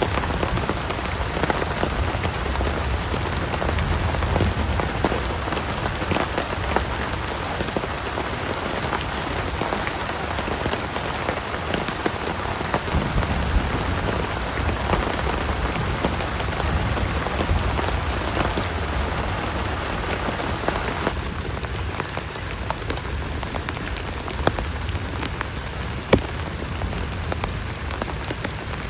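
Heavy rain falling steadily, with many separate drops tapping close by. About 21 s in, the rain's sound becomes thinner in the middle range.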